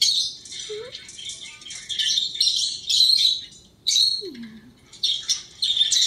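Small pet bird chirping and chattering in rapid, high-pitched bursts, with a few short squawks.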